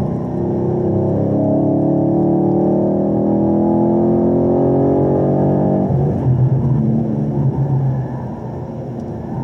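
2017 Camaro SS 1LE's 6.2-litre V8 accelerating hard in third gear, its note rising steadily as revs climb. About six seconds in the throttle is lifted for braking, and the note suddenly drops and turns rough and uneven.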